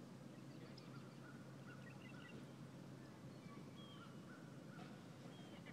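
Near silence: faint, distant bird calls, short scattered chirps and brief whistles, over a low steady background hum.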